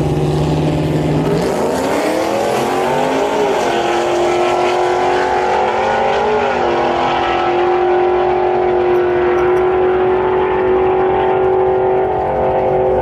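A race truck's engine runs at a low steady note, then revs up sharply about one and a half seconds in and holds a high, steady pitch at high rpm. It wavers briefly about halfway through and dips once near the end.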